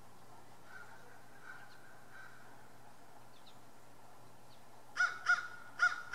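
A bird calling: three faint calls about a second in, then four short, loud calls in quick succession near the end.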